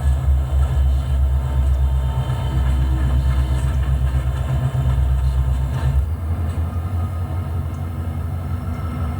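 Diesel locomotive engine running with a low, steady rumble; the engine note changes abruptly about six seconds in.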